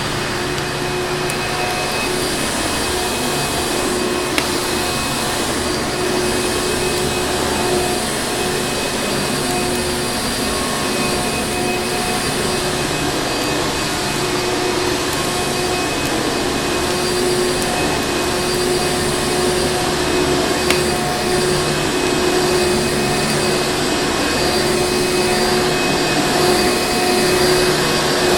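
Vacuum cleaner running steadily: a constant motor whine over rushing airflow, unchanging throughout, with a couple of faint single clicks.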